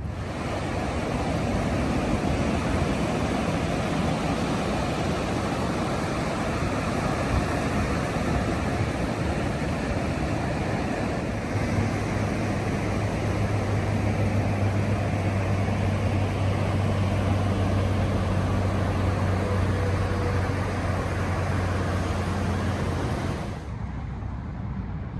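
Steady rush of ocean surf and wind, with a low steady hum underneath; it cuts off suddenly near the end.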